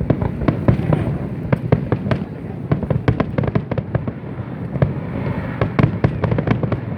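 Fireworks exploding: a rapid, uneven run of sharp cracks and bangs, several a second, over a low rumbling boom.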